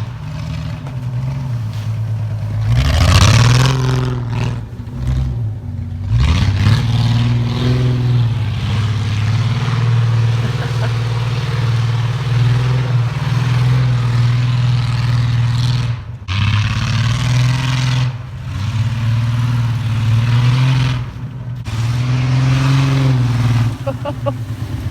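Truck engine running and revving under load, its pitch rising and falling several times, with a steady hiss over much of it.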